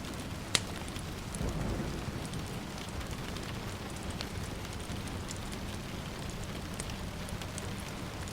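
Steady rain falling, mixed with a wood fire crackling, with one sharp pop about half a second in and a few fainter ones. A brief low rumble of distant thunder swells around a second and a half in.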